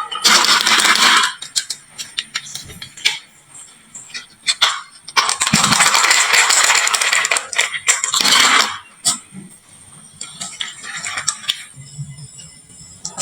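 Marbles rolling and clattering down a wooden marble-run slope and dropping into toy trucks: three spells of rapid clicking, at the start, around the middle and briefly later, with scattered single clicks between.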